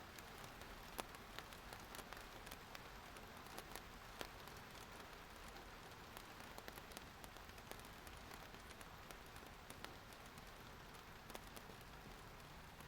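Rain falling steadily: a faint, even hiss of rainfall with many individual drops tapping sharply on a surface, a few louder than the rest.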